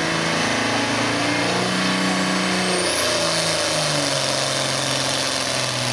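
Turbocharged diesel engine of a Case IH pulling tractor running hard under load, its pitch stepping up and down several times, with a high whine rising about halfway through. Near the end the engine note falls away as the tractor comes off power.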